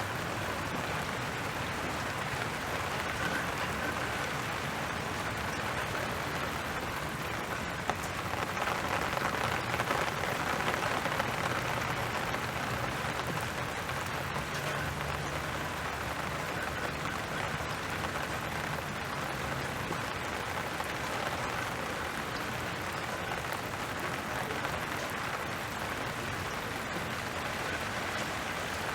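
Steady rain falling, an even hiss of drops landing on surfaces with no break. A faint low hum sits underneath from about eight to twenty seconds in.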